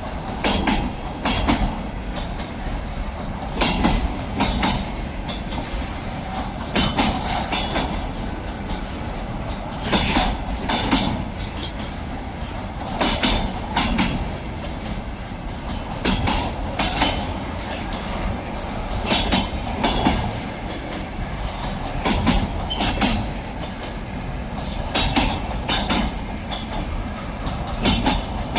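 Freight train wagons rolling past, with a steady rumble of wheels on rail. Clusters of sharp clacks come about every three seconds as each wagon's wheelsets cross a rail joint.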